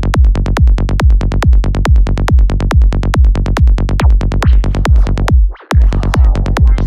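Psytrance music: a steady four-on-the-floor kick drum with a rolling bassline between the kicks. The beat cuts out for a split second about five and a half seconds in, then comes back with a swirling, rising synth sweep on top.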